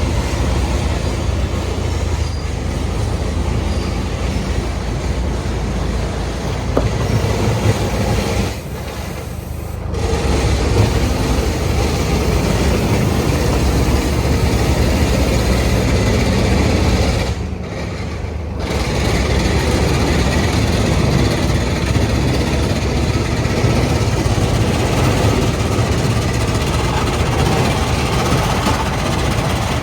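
A 1975 truck's engine running as it drives, loud and steady with most of its energy low, dropping away briefly twice, about nine and seventeen seconds in.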